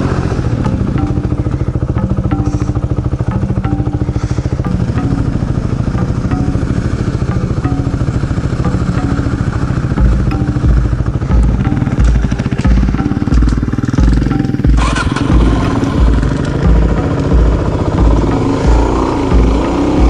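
Dual-sport motorcycle engine running steadily while ridden. About halfway through a low, regular thumping sets in, about two a second.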